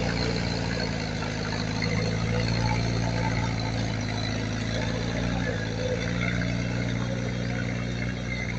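Diesel engine of heavy earthmoving machinery running steadily at a low, even speed.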